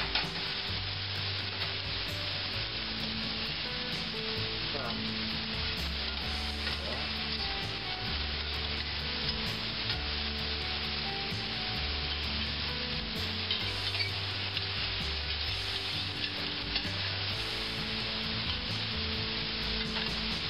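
Sliced mushrooms frying in olive oil in a stainless steel skillet: a steady, loud sizzle as they lightly brown on medium-high heat, with metal tongs now and then ticking against the pan as they are turned. Low background music plays underneath.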